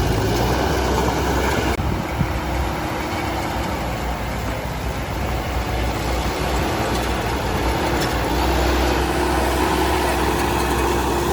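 Heavy diesel construction machinery, a bulldozer or dump truck, running with a steady low engine rumble that grows a little louder about eight seconds in.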